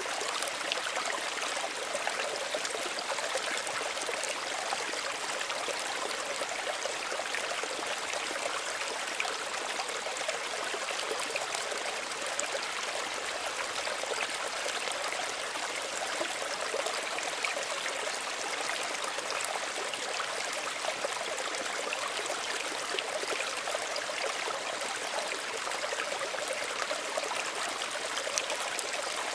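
A small stream running steadily over stones, with a constant rush and fine trickling and bubbling detail.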